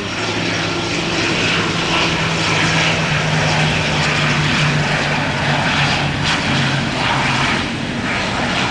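Airliner engines running, a loud steady drone with a low hum underneath.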